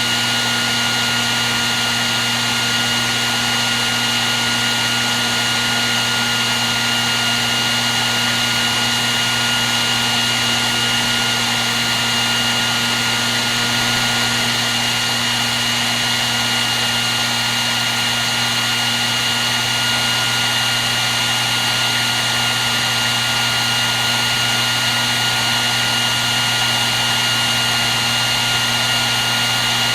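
Hair dryer running steadily on one setting: an even blowing hiss with a steady low hum and a high whine that never change.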